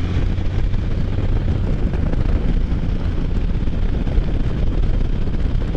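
Steady rush of wind buffeting a helmet microphone while riding a Can-Am Spyder F3 three-wheeled motorcycle at road speed, with the engine running underneath.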